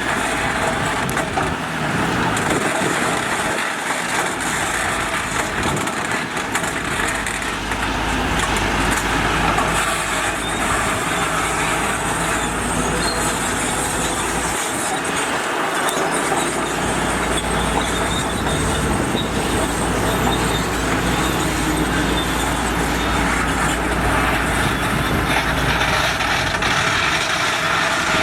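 Heavy construction machinery running steadily with continuous engine and working noise. A deep low rumble comes in about seven seconds in, drops out briefly around fifteen seconds, and returns until near the end.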